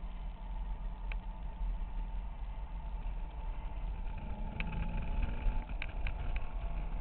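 Corvette Z06's 7.0-litre LS7 V8 heard from inside the cabin while driving on track, a steady deep low drone. A few short sharp clicks or rattles come in the second half.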